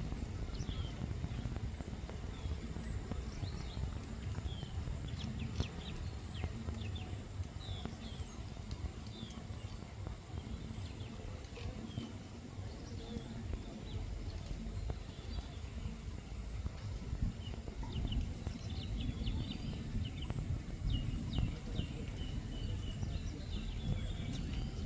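Songbirds chirping with many short calls throughout, over a steady low rumble and a constant thin high-pitched tone.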